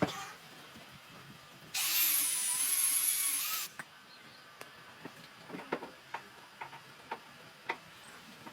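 A power tool runs in one short burst of about two seconds, with a high-pitched whir. Before and after it come scattered light knocks and clicks of hands working the wood.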